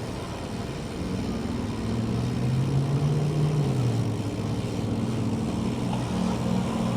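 A motor vehicle's engine running close by in traffic. Its pitch climbs and then drops about four seconds in, over steady background noise.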